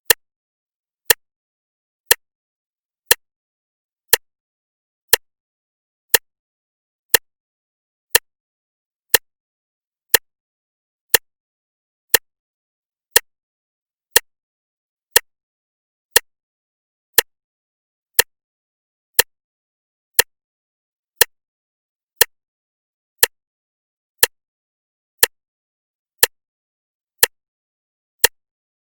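Mechanical clock ticking steadily, one sharp tick a second, with silence between the ticks.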